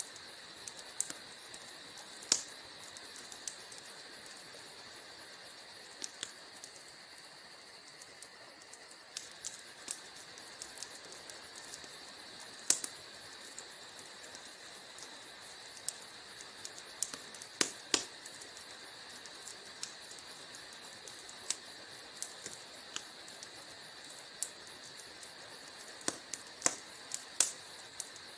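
Wood fire crackling in a fireplace: irregular sharp pops and snaps of burning logs, some louder than others, over a soft steady hiss.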